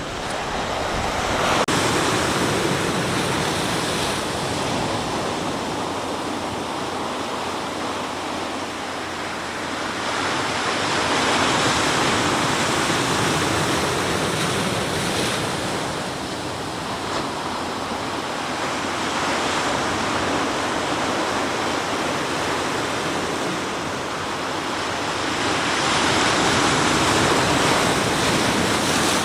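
Sea waves breaking and washing on the shore, a continuous wash of surf that swells and eases every several seconds as each wave comes in.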